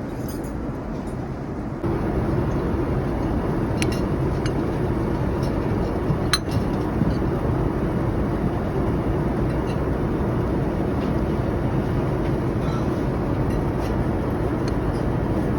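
Steady jet airliner cabin noise, the low rush of a Boeing 787 in flight, louder from about two seconds in. A few light clinks of cutlery on dishware come around four and six seconds in.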